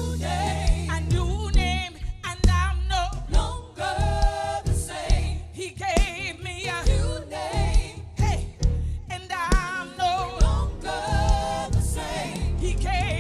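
Gospel music: voices singing held notes with wide vibrato over a band, with bass and sharp percussive hits.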